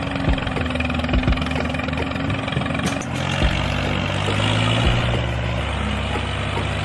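A vehicle engine running steadily, its pitch stepping up about three seconds in and shifting again later, with light clicks over it.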